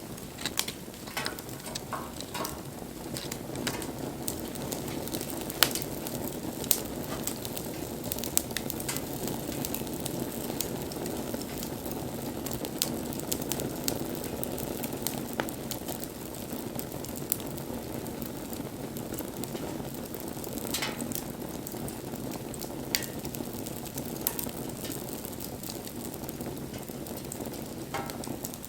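Wood fire burning: a steady hiss with irregular sharp crackles and pops throughout.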